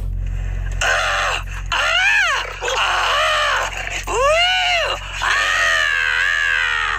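Strange signal heard on a radio receiver: a series of about five wavering, howl-like tones, each swooping up and back down over half a second to a second, over a steady low hum.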